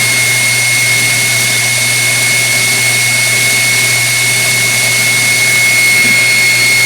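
KitchenAid Artisan stand mixer's brushed motor running steadily at speed, with a constant high whine over a grinding noise from the brush end of the motor. The owner suspects a bad armature or a bad bearing.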